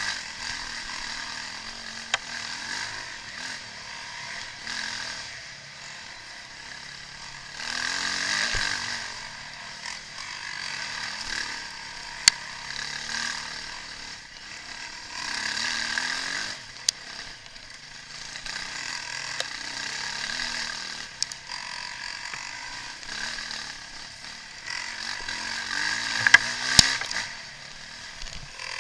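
Motocross bike engines revving as bikes go past on the track. The sound swells and fades several times, loudest about a quarter in, midway and near the end, with a few sharp clicks.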